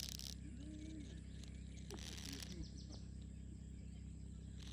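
Quiet outdoor ambience: a steady low hum with short bursts of rapid, high-pitched chirping at the start and again about two seconds in.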